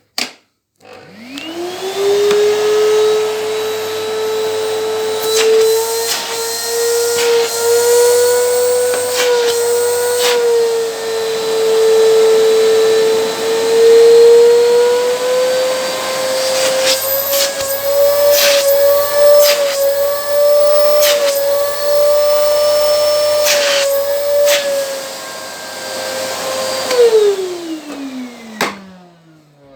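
Moulinex Type AK5 1500 W Powerclean vacuum cleaner switched on with a click, its motor whining up to speed within about two seconds. It runs steadily with scattered clicks and knocks, then is switched off near the end and spins down with a falling whine.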